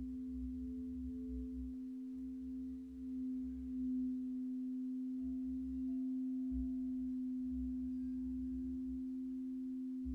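Meditation background drone: a steady pure tone that swells a little a few seconds in, with fainter higher tones and a low wavering rumble beneath.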